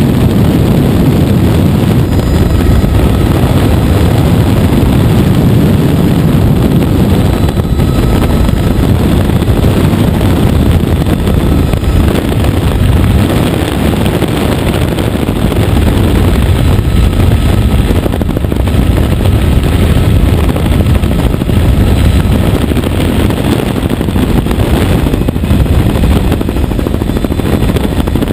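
Helicopter in flight, its rotor and engine running steadily and loudly, the noise heaviest in the low end.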